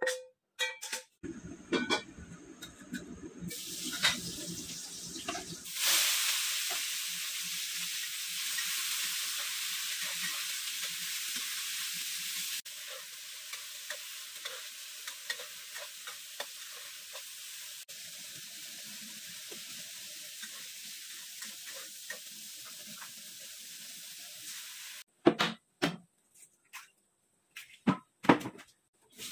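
Green beans sizzling in hot oil in a wok as they are stir-fried, with a metal spatula scraping and ticking against the pan. The sizzle starts suddenly about six seconds in and cuts off near the end. It is followed by a few sharp taps of an egg cracked against a ceramic bowl.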